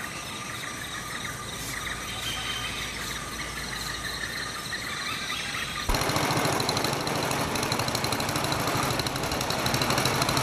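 Forest insect chorus of steady high-pitched trills. About six seconds in it cuts abruptly to a louder, steady rushing noise with a low throb.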